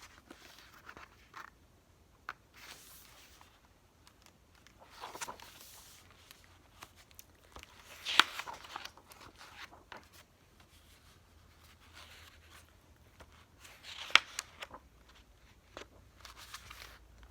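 Paper rustling from a picture book being handled and its pages turned: a few short rustles about five, eight and fourteen seconds in, the last with a sharp click, in a quiet small room.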